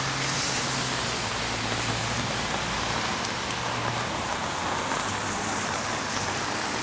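Steady rain falling, an even hiss, with a low steady hum underneath that weakens after about four seconds.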